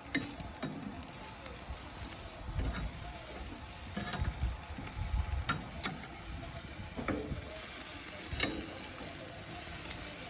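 Chicken sizzling on a barbecue grill: a steady hiss, with a handful of short clicks and knocks scattered through it.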